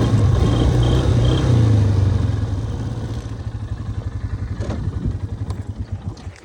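ATV engine running, then winding down to slow, separate firing pulses and stopping shortly before the end: the engine being shut off.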